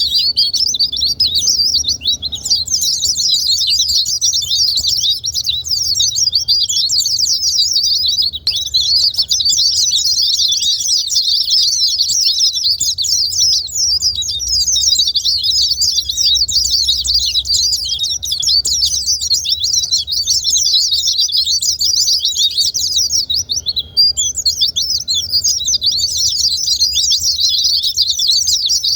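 White-eyes (pleci) singing: a dense, fast, high-pitched twittering that runs almost without pause, with brief breaks about eight seconds in and near twenty-four seconds in.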